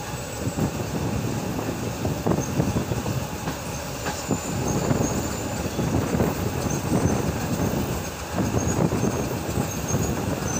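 Passenger train in motion: a steady rumble and clatter of wheels on the rails, with faint high wheel squeals now and then.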